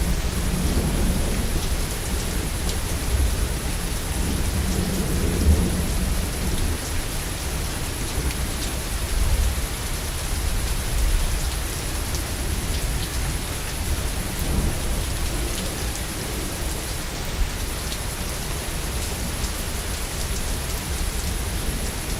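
Steady heavy rain with thunder rumbling low beneath it, swelling and fading several times, loudest around the first second, about five seconds in and about nine seconds in; scattered individual drop ticks stand out.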